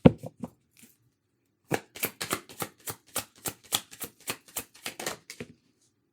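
A tarot deck being shuffled by hand, with sharp card slaps: a quick run in the first second, a short pause, then about four a second for several seconds.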